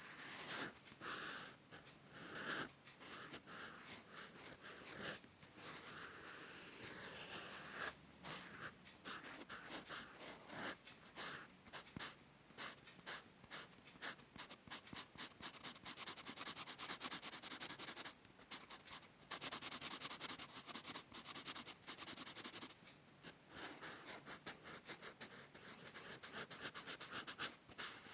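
A drawing tool scratching across paper in quick repeated strokes, with short pauses between runs.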